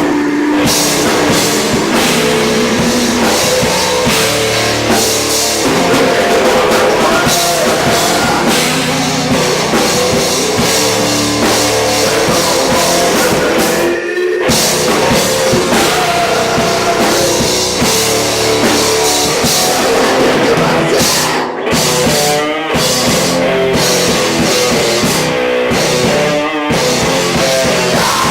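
Rock band playing loud with a drum kit. The whole band drops out for an instant about halfway through, then stops and hits again in short bursts several times near the end.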